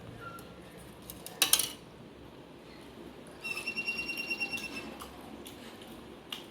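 A short, sharp clatter of dishware, the loudest sound, about a second and a half in. Past the middle comes a high-pitched, rapidly pulsing chirp from an animal, lasting about a second and a half.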